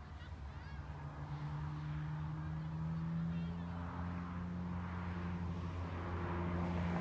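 A steady low engine hum with several even tones, growing slowly louder.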